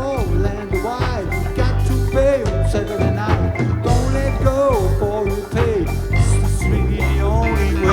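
Live rock band playing with a steady drum beat and bass under a melodic lead line that bends in pitch, likely guitar with some singing.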